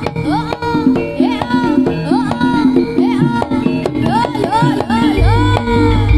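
Live jaranan ensemble music: a high melody of short notes that swoop up and fall away over steady struck-note percussion. Heavy low drum beats come in about five seconds in.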